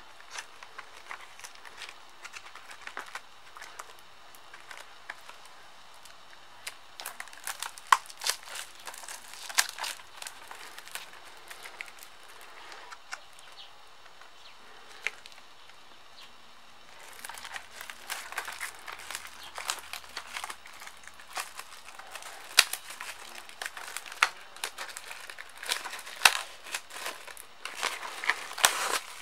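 Plastic shrink-wrap being picked at and peeled off a DVD case: crinkling and crackling with sharp clicks. It thins out for a few seconds midway, then the crinkling comes thick and fast in the last third.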